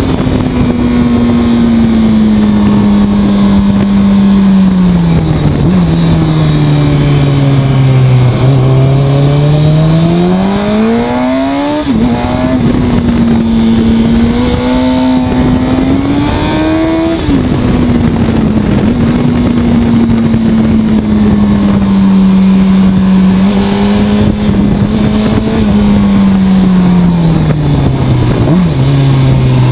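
Honda CBR sport bike's inline-four engine heard from the rider's seat under way: the engine note holds steady, sinks as the bike slows about five seconds in, then climbs hard with two quick drops in pitch where the rider shifts up, and falls off again near the end.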